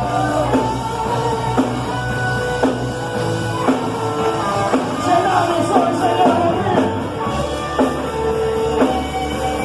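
Rock-style Christian worship band playing with drum kit, bass and electric guitar, keeping a steady beat of about one drum hit a second.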